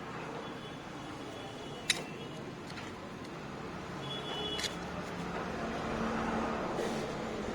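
Sharp metallic clicks of tools and engine parts being handled. The loudest comes about two seconds in and a second one near the five-second mark, each with a brief high ring, over a steady background hum.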